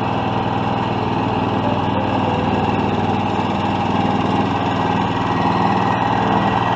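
10.3 HP engine of a DR Field and Brush Mower Premier 26 running steadily at an even speed, with the mower not cutting any grass.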